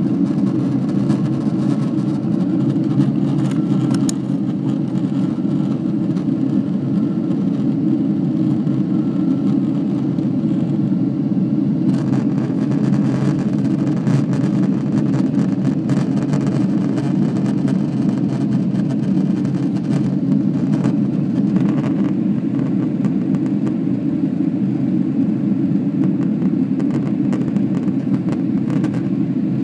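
Steady low rumble of a jet airliner's engines heard inside the passenger cabin, with faint light rattles in the middle.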